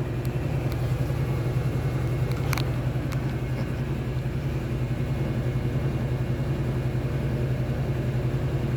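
Steady low machine hum with a fast pulsing beat. A few light clicks come in the first three seconds, the sharpest about two and a half seconds in.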